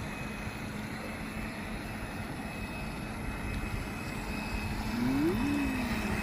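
Electric motor of a radio-controlled model boat running with a steady hum, which rises sharply in pitch about five seconds in, dips back and settles a little higher as the motor speeds up.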